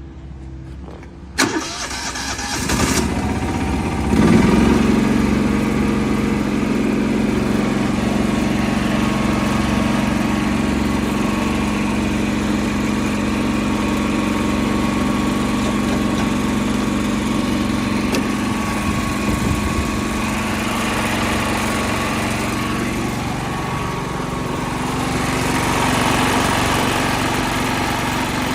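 Kubota GH340 single-cylinder gasoline engine started on its electric starter: a click about a second in, a couple of seconds of cranking, then it catches about four seconds in and settles into steady running.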